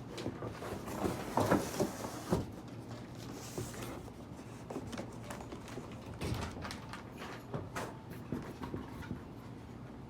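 Irregular knocks, clicks and rustles of a boxed electric scooter and its packaging being handled during unboxing.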